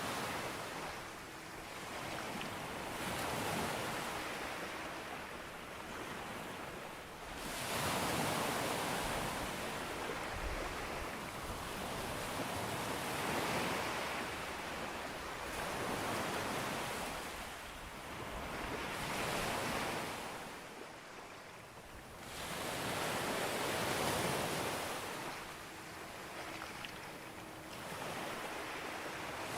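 Sea waves breaking on a beach, one after another, the surf swelling and fading every few seconds.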